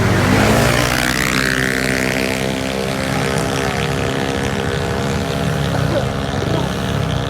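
Racing CVT scooter engines (Aerox/NMAX class) running hard in a drag run, with a brief glide in pitch in the first second or two, then a steady high-revving drone, the belt transmission holding the engines at constant revs.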